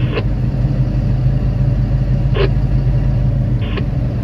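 Hitachi 2500 mining excavator's diesel engine running steadily with a low drone, and a couple of brief clicks over it.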